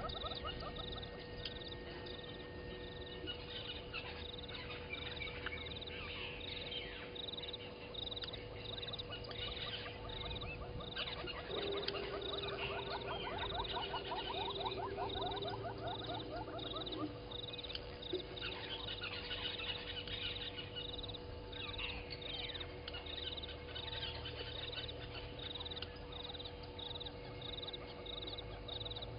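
Morning chorus of frogs and birds, with a high, even chirp repeating about twice a second throughout and a longer trilled call in the middle.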